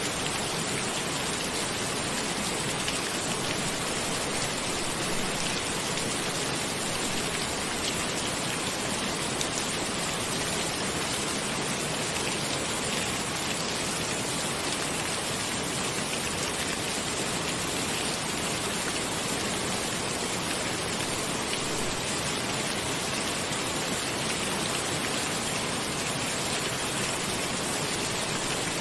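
Steady rain falling, an even hiss of drops on a surface that neither builds nor eases.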